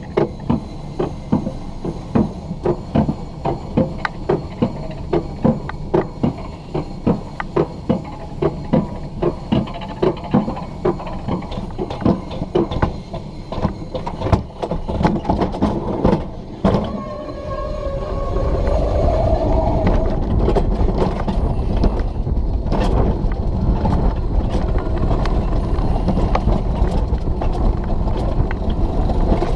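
Alpine coaster sled on its steel-tube track: first a regular clicking, a little under two clicks a second, as it is hauled up the lift. After about sixteen seconds the clicking stops and gives way to a steady, louder rumble and rush as the sled rolls down the descent.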